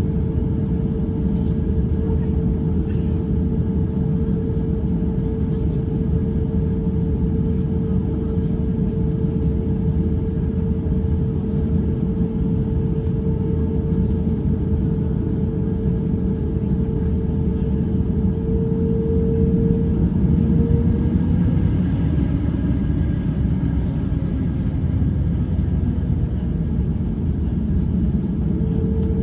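Steady in-cabin noise of an Airbus A350-900's Rolls-Royce Trent XWB engines and airframe, a low, even rumble with a steady hum that fades about two-thirds of the way through and returns near the end.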